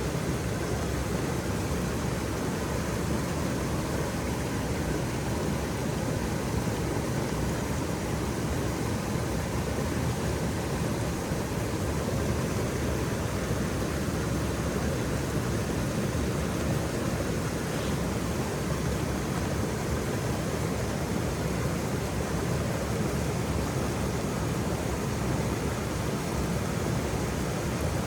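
Waterfall: falling water rushing steadily and unbroken, deepest in the low range.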